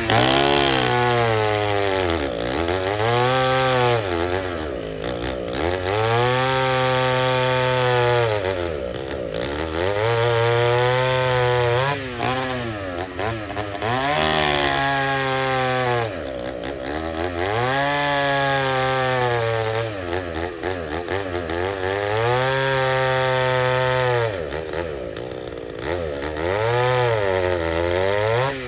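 Vintage two-stroke chainsaw engine revving up, holding high speed, then dropping back, over and over about every four seconds.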